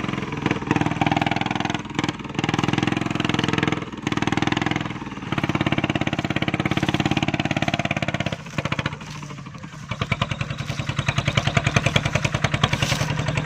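Single-cylinder diesel engine of an e-taen farm truck running under a heavy load of sugarcane. The engine note dips briefly a few times, then from about ten seconds in it settles into a steady chugging of separate, evenly spaced beats.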